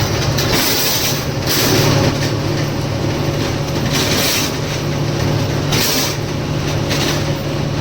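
Lorry engine running steadily with road noise, a low even hum under a hiss that swells and fades every second or two.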